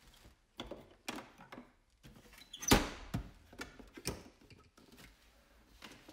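Storage boxes and product bottles being handled: a string of clicks and knocks, the loudest a little before the middle, followed by a short scrape.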